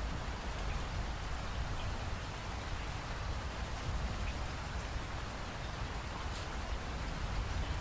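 Steady rain falling, an even hiss with a low rumble underneath and scattered faint drop ticks.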